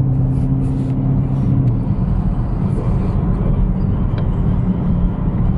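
Car engines running: a steady low engine hum stops about a second and a half in. A rough, low engine rumble carries on after it.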